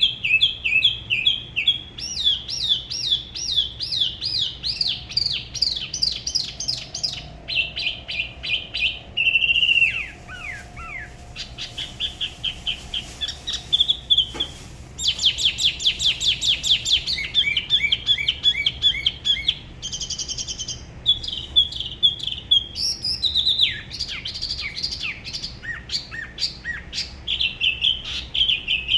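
Spot-throated babbler singing: a long, varied run of rapid repeated high whistled notes, switching to a new trill pattern every second or two. A single click sounds about halfway through.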